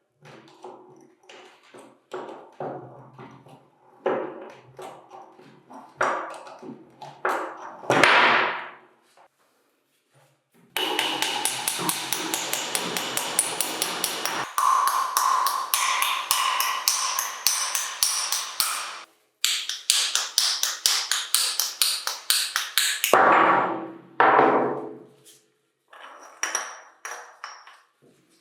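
Metal being hammered during the teardown of a concrete vibrator: scattered knocks and clunks, then two long runs of fast, evenly repeated hammer strikes with a short break between them, and a few light taps near the end.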